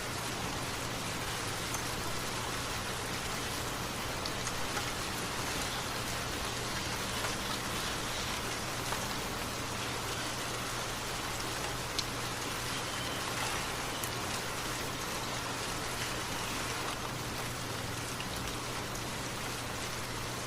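Steady rain falling: an even hiss with scattered individual drop ticks, one sharper tick about twelve seconds in.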